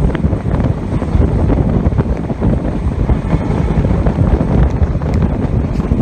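Steady rumble of a moving passenger train, heard from on board, with heavy wind buffeting the microphone. No horn sounds.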